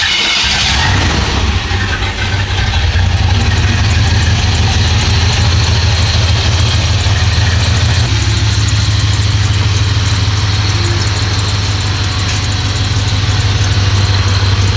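Pickup truck engine running at a steady, deep idle just after being started.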